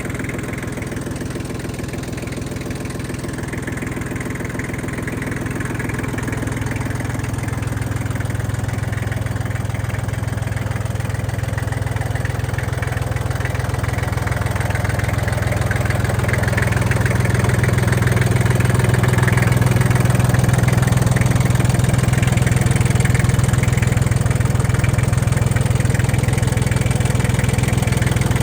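Iseki TL2301 compact tractor's three-cylinder diesel engine running steadily, growing louder over the first half and then holding at a steady level.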